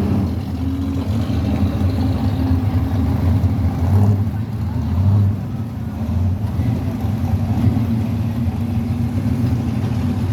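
Muscle car engines rumbling at low speed as the cars pull out and drive past, with a louder swell about four to five seconds in.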